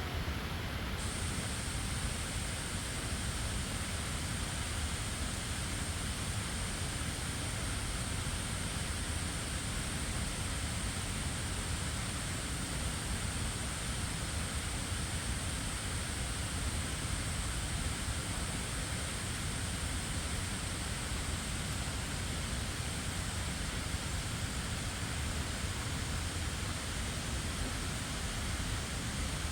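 A steady rushing noise, even throughout, with a thin high whine that comes in about a second in.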